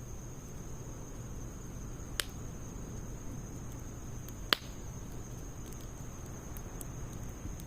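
Wood fire burning in a Snow Peak fire stand with a low steady rumble and occasional crackles; two sharp pops about two and four and a half seconds in, the second louder.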